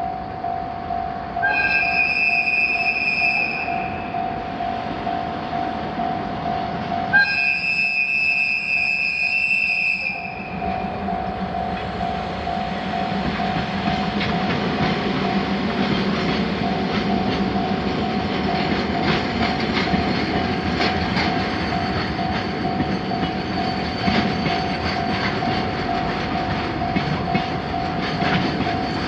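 A Japanese railroad crossing bell ringing steadily throughout. A train horn sounds twice, a short blast and then a longer one. From about a third of the way in, a train runs through the crossing with a rumble and clickety-clack of its wheels.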